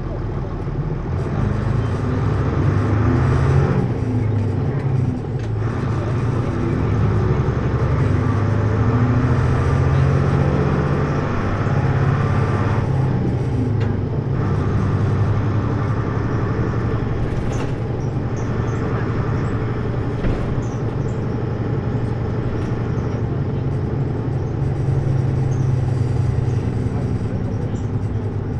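Hino U-HT2MLAA route bus heard from inside, its diesel engine running under way with the pitch rising and falling and two brief breaks in the drive, as at gear changes. The bus has an abnormal-noise tendency, which the recordist likens to the sound of a sister bus near the end of its service life.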